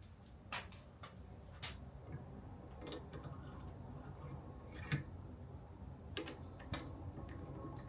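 Light metal clinks and taps from a test bar and measuring tools being handled and set on a drill press worktable, a few of them ringing briefly. The loudest is about five seconds in.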